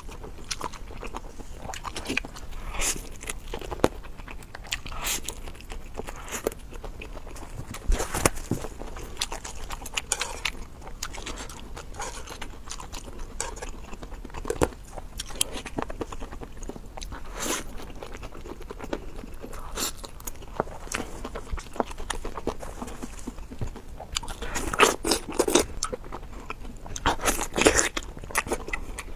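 A person eating close to the microphone, biting and chewing noodles wrapped in perilla leaves, with irregular crunchy, wet mouth clicks that crowd together near the end.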